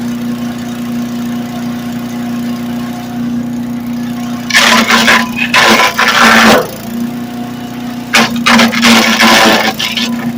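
Small gas engine of a Harbor Freight disc chipper / hammer-mill mulcher combo running steadily. Branches are fed in and chipped in two loud, noisy spells of about two seconds each, starting about four and a half seconds in and again about eight seconds in.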